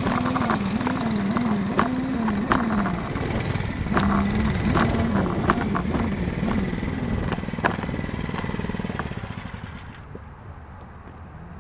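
Mini bike's small engine running under way, its pitch wavering up and down again and again as the throttle is worked, with sharp clicks and rattles throughout. It drops quieter and duller about ten seconds in.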